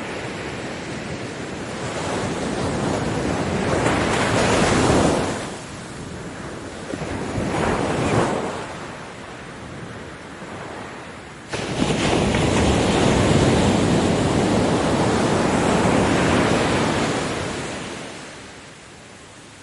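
Ocean waves breaking and washing up a beach in repeated surges that swell and fade. The biggest breaker comes in suddenly a little past the middle, holds for about five seconds, then recedes.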